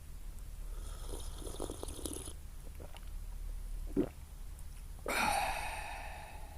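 Handling noises: scraping with a high ringing, a single knock, then a sharp clank that rings on and fades over about a second and a half, over a steady low hum.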